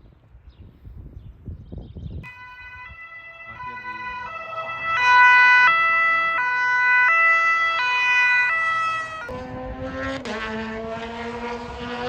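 Two-tone emergency siren alternating between a high and a low note about every 0.7 s, growing louder as it passes. Near the end it gives way to a loud race car engine running hard.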